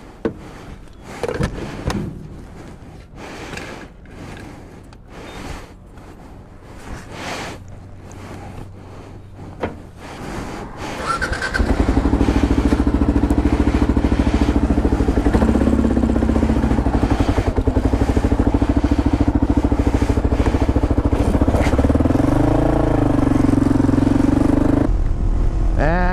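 Scattered light knocks and handling noises, then about eleven seconds in the Kawasaki KLR 650's single-cylinder engine comes in suddenly and runs loud and steady, with a brief rise and fall in pitch near the end.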